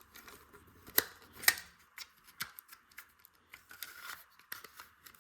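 LEGO plastic pieces clicking and rattling as they are handled and pressed into place, with two sharper clicks about a second and a second and a half in.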